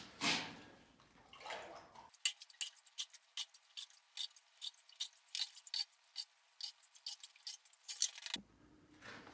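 Water dripping irregularly, several sharp drips a second, sounding thin, after a short noisy scrape fades out at the start.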